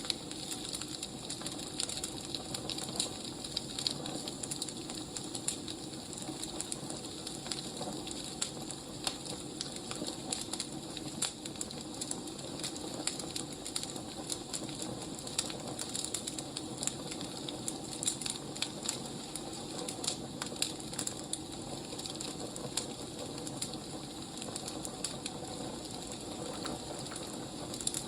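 Wood fire burning, with a steady hiss and frequent irregular crackles and pops.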